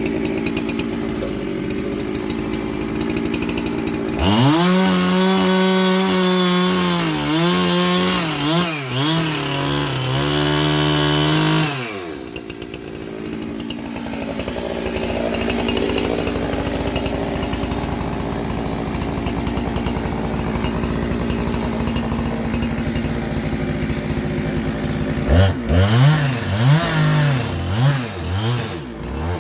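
Two-stroke chainsaw running: it idles, then revs high for about eight seconds with its pitch dipping and recovering several times, as it does under load in a cut. It drops back to idle and gives several quick throttle blips near the end.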